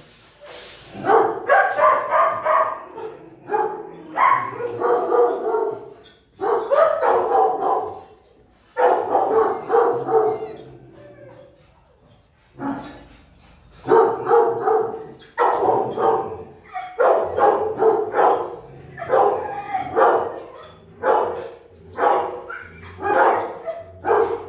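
Dogs in shelter kennels barking over and over, in loud bursts about every second or two, with a short lull about halfway through.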